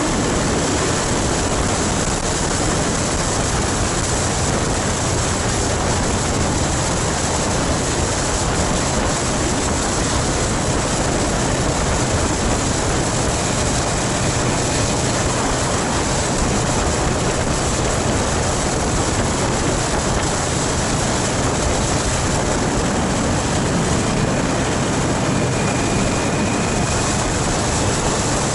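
Motorcycle riding at speed: a steady rush of wind noise on the microphone, with the engine running steadily underneath.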